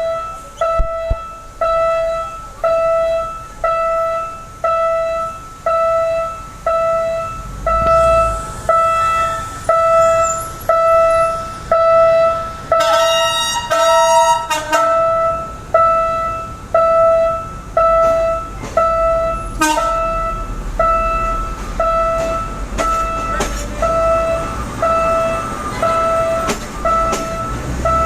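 Railway level-crossing warning bell ringing steadily, about three dings every two seconds, each a single pitched ding that fades. A short high-pitched tone comes about halfway through, and a low rumble builds in the second half as a train draws near.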